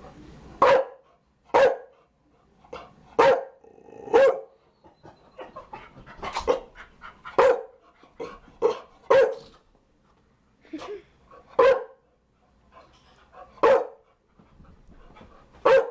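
Chow Chow dog barking in short single barks, about a dozen, spaced irregularly with pauses of up to two seconds.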